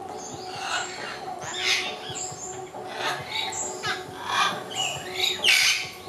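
Birds chirping and calling, short high calls that slide up and down in pitch every second or so, the loudest near the end, over a steady low hum.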